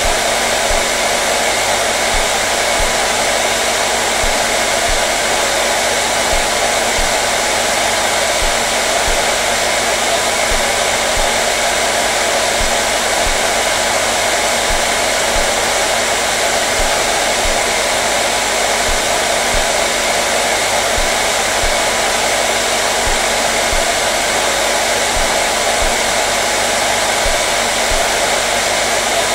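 Hair dryer running steadily: a constant, even rush of blown air with a low motor hum underneath.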